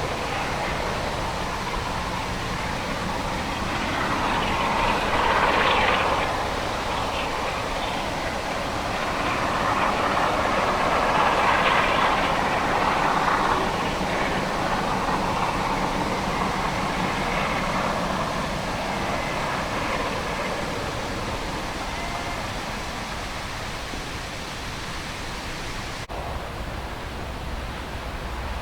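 Diesel train running past on the railway, its sound swelling twice before fading back into a steady background rush.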